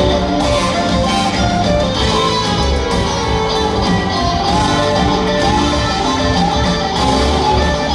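Live rock band playing: guitars over bass and drums with a steady beat.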